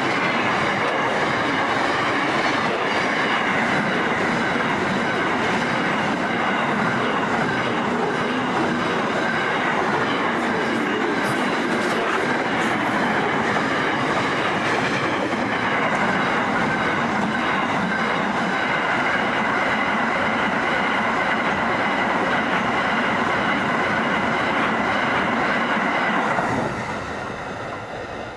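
Container wagons of a long freight train rolling past close by: a steady, loud rush of steel wheels on rail with a faint high ringing tone running through it. It drops away sharply near the end as the last wagon passes.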